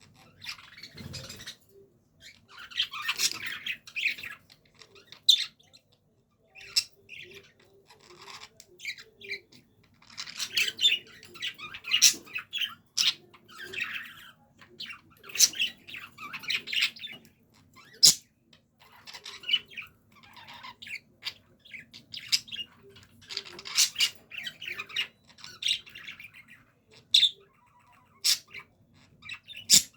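Budgerigars chattering and warbling in irregular bouts, broken by sharp chirps and squawks, the chatter budgies make in breeding mood.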